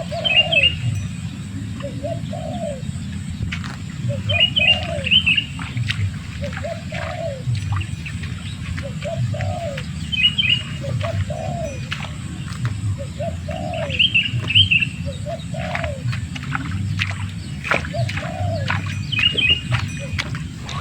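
Birdsong: a dove cooing over and over, short soft calls about once a second, with a small bird giving brief high chirping phrases every few seconds. A steady low hum runs underneath.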